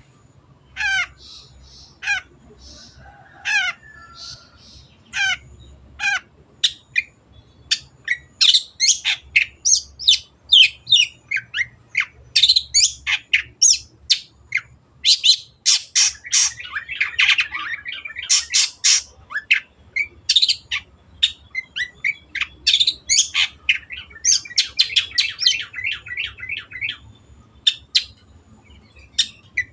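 Long-tailed shrike (cendet) singing harshly: single sharply falling notes about once a second at first, then a fast, dense run of squawking and chattering notes that slackens near the end.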